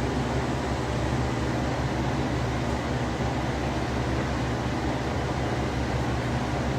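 Steady mechanical whirring noise with a low hum, like a motor-driven fan or blower running continuously.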